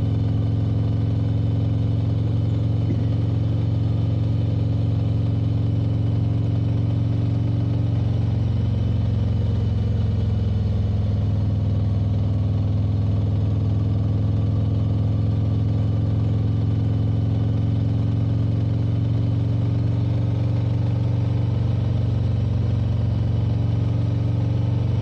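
Motorcycle engine running at a steady cruising pace while riding, a steady drone with no changes in loudness.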